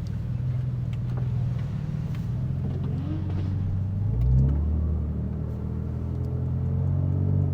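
E85-tuned Infiniti Q60's engine running under way, heard from inside the car with the exhaust valves closed; about four seconds in it revs briefly and the note then settles lower.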